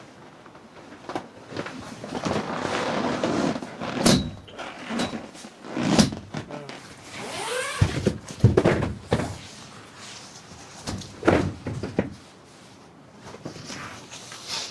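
Irregular knocks, thuds and rustling, as of objects being handled and moved about.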